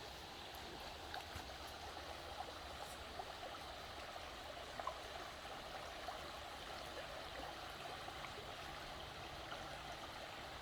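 A stream of running water flowing steadily, a continuous even babble.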